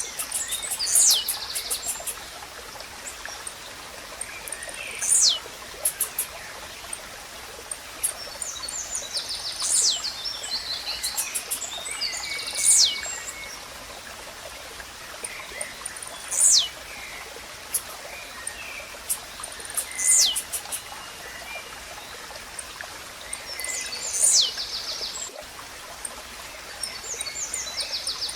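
Blue-black grassquit (tiziu) singing a short, sharp, steeply falling note about every four seconds, with other small birds chirping in quick trills, over a steady background hiss.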